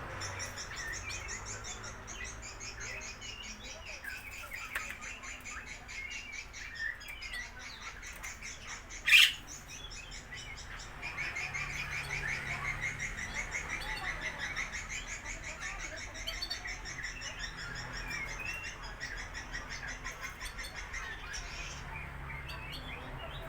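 Lovebirds chattering: continuous rapid, high-pitched twittering and trilling chirps. A single sharp sound, much louder than the chatter, cuts in about nine seconds in.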